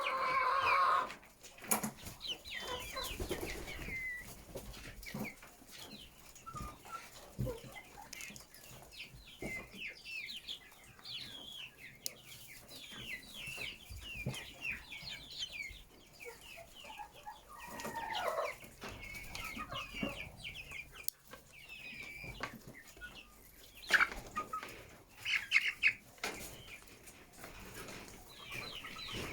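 A flock of chickens clucking and squawking, many short calls overlapping, with a longer loud call at the start. A few sharp knocks come through, the loudest about three quarters of the way in.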